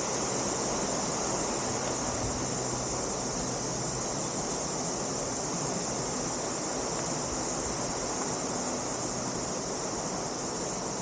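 Steady, even rushing of a waterfall, with a continuous high hiss above it.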